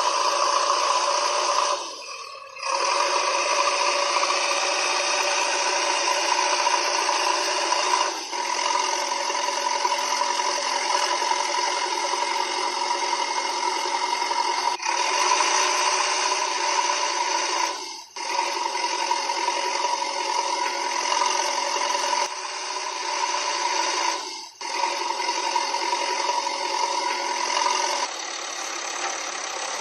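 Small electric motor of a miniature DIY model tractor running steadily with a high whine and a rattle. It cuts out briefly three times.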